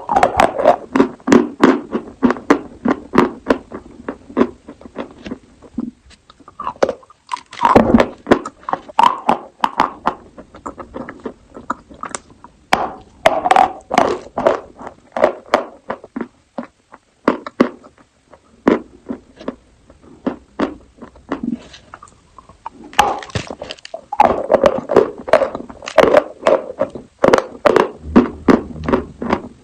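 Close-miked crunching and chewing of chalk: rapid sharp crunches in runs of several seconds, with brief pauses between runs and a longer lull about two-thirds of the way through.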